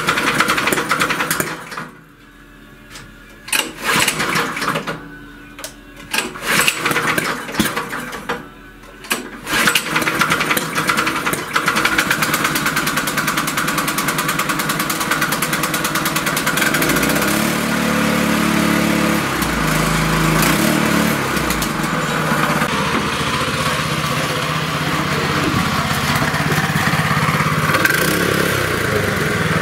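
Brada BD 850 cultivator's petrol engine being pull-started, with several short tries in a row before it catches about ten seconds in and settles into steady running, its note shifting for a few seconds about halfway. It runs on a newly fitted carburetor, replacing one whose fault left the engine starting but not responding to the throttle.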